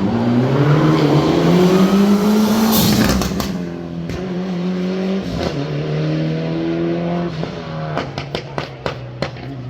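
Rally car engine accelerating hard, its pitch rising over the first couple of seconds to a loud peak, then running at steadier revs. Near the end comes a quick string of sharp cracks.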